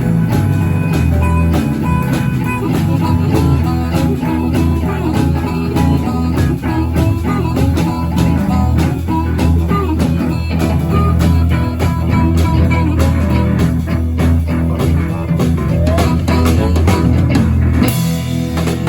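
Live blues band playing, with guitar over a drum kit keeping a steady beat.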